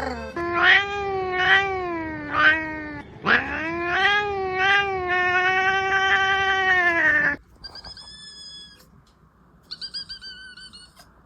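A cat yowling: three short cries that rise and fall in pitch, then one long drawn-out yowl lasting about four seconds. Near the end come quieter, much higher, thinner cries.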